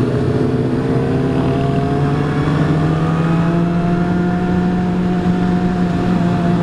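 Motorcycle engine under way, its note rising steadily over the first few seconds as it accelerates gently, then holding at a steady pitch over a rushing noise.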